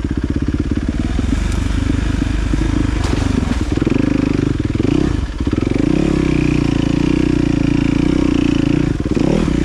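Dirt bike engine running under load as the bike is ridden along a trail, revs rising and falling, with brief drops in pitch a few times, around four, five and nine seconds in.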